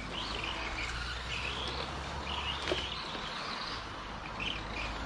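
Birds chirping in short, irregular phrases over a steady low outdoor background, with one short knock about halfway through.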